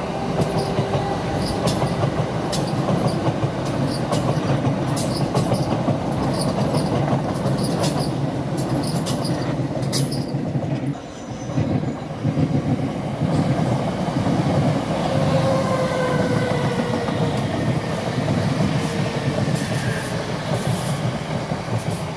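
Electric passenger trains running on the tracks: a steady rumble of wheels on rail, with sharp clicks over the rail joints in the first half and thin wheel squeal in the second half.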